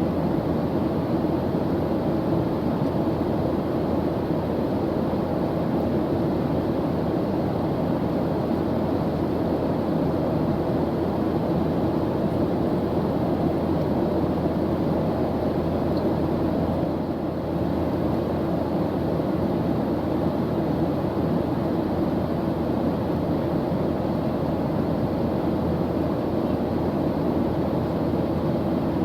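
Steady airplane engine drone heard from inside the plane in flight, a deep even rushing noise with no change in pitch, dipping slightly for a moment about seventeen seconds in.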